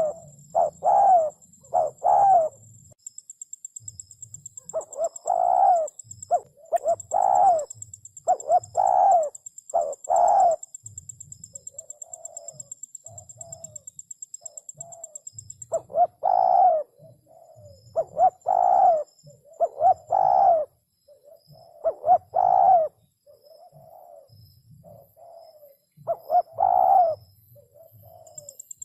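Spotted dove cooing: repeated phrases of coos in groups, some loud and some softer, with short pauses between them.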